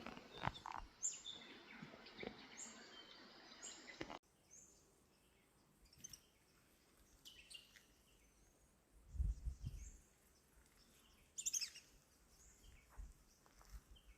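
Wild birds chirping in the background with repeated short, high notes; about four seconds in the sound drops away abruptly, leaving only scattered faint chirps and a brief low rumble about two-thirds of the way through.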